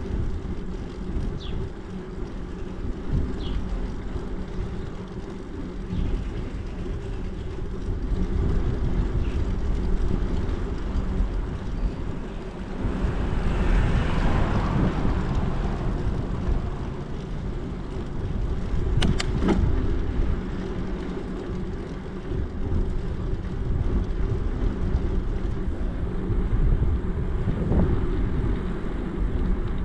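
Wind buffeting the microphone and tyre rumble from a bicycle riding along, a steady low rushing noise. About halfway through, a louder rushing sound swells and fades. A little later come two sharp clicks.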